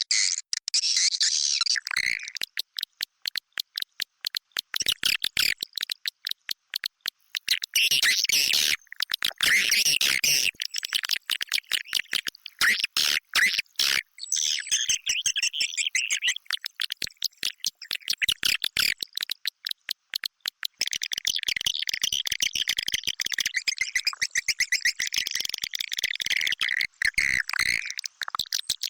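Swiftlet lure-call recording: many swiftlets twittering in high chirps, mixed with rapid trains of sharp clicks, as recorded inside a swiftlet house. A few stretches are clicks alone, with the chirping dropping out briefly.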